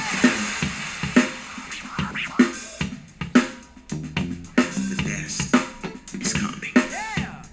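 Drum-heavy music with a steady beat, played back through a Proton Tempo wireless speaker. Strong drum hits land about every second and a bit, and swooping synth-like glides come in near the end.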